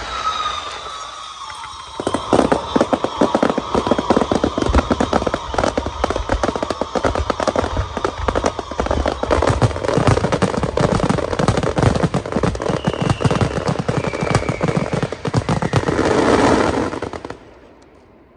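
Fireworks going off: a falling whistle, then a dense, rapid string of cracks and bangs for about fifteen seconds, with a few short whistles among them. It stops suddenly near the end.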